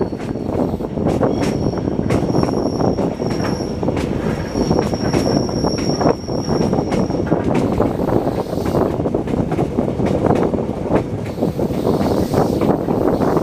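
Train running on the rails, a steady rumble broken by sharp clacks from the wheels over rail joints. A thin high-pitched wheel squeal runs through the middle few seconds and then stops.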